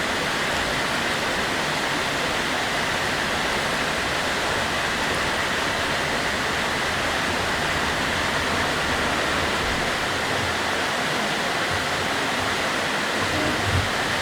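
Mountain valley stream rushing close by: a steady, unbroken water noise.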